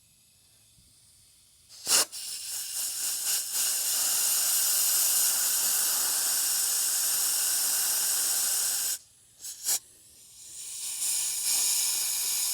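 Air hissing through a vacuum hose in a test for a vacuum leak. A click about two seconds in, then a long rushing hiss, a short break with a couple of clicks, and a second hiss.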